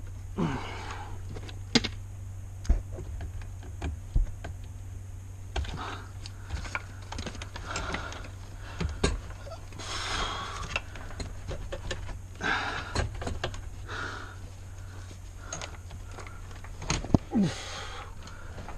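Irregular clicks, knocks and rustling of hands working loose plastic interior trim in a Subaru XV, over a steady low hum.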